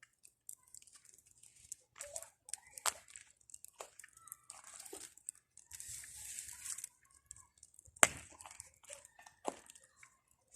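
Campfire of pruned garden branches burning down to embers: scattered crackles and pops, a brief hiss around six seconds in, and one sharp snap about eight seconds in.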